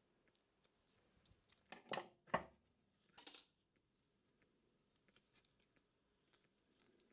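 Small hand tools working on electrical wiring: two sharp snips or clicks about two seconds in, the second the loudest, then a short scraping rasp, with faint handling clicks around them.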